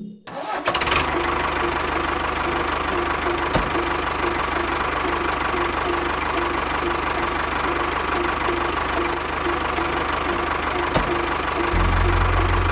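Small motor of a miniature DIY tractor running steadily, with a regular pulsing knock in its note. A deeper rumble joins near the end.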